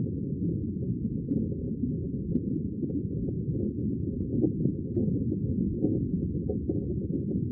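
Sea water making a steady, muffled low rumble, with no hiss or splash on top and no distinct wave rhythm.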